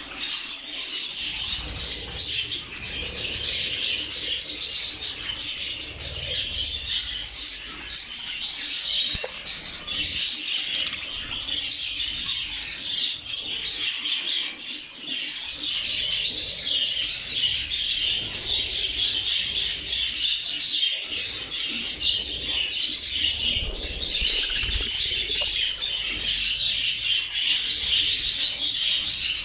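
A large flock of budgerigars chattering and chirping at once, a continuous busy twitter with no pauses.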